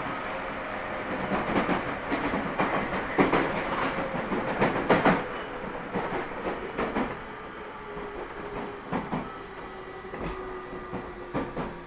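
Onboard running sound of a Tobu 30000 series electric train's motor car: wheels knocking over rail joints, clustered and loudest in the first half, under a steady motor whine that slowly falls in pitch as the train slows.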